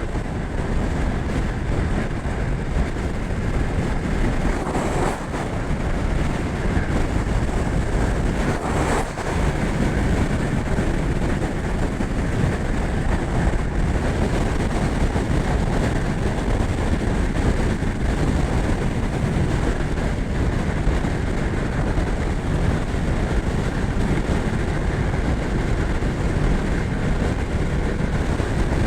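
Yamaha R1 sportbike's crossplane inline-four running steadily at highway cruising speed, heard from on the bike under a dense, even rush of road and wind noise.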